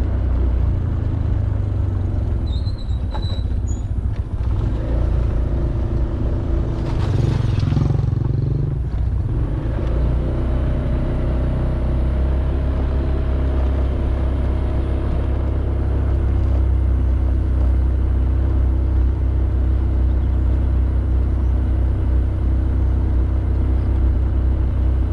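Honda Beat 110cc scooter's single-cylinder engine running at a steady cruise with a constant low rumble of engine, wind and road noise. A louder rush of noise swells and fades around seven to nine seconds in.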